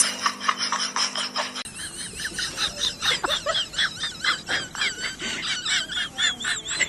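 Rapid high-pitched chirping and squeaking calls from small animals or birds, several a second, with the sound changing abruptly about a second and a half in and a run of quick rising-and-falling peeps near the end.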